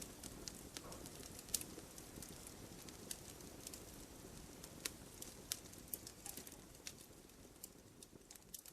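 Wood fire burning, with irregular sharp crackles and pops of the firewood over a low, steady rumble of flames. The fire grows fainter near the end.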